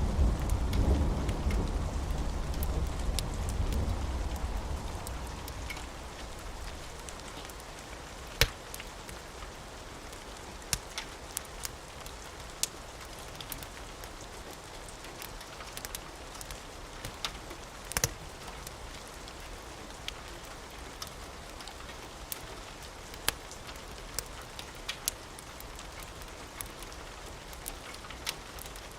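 A low rumble of thunder fades away over the first five seconds, leaving steady rain with scattered sharp crackles.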